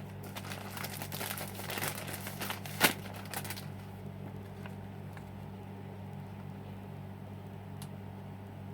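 Crinkling and handling noises with scattered clicks and one sharp click about three seconds in; after about three and a half seconds only a steady low hum remains.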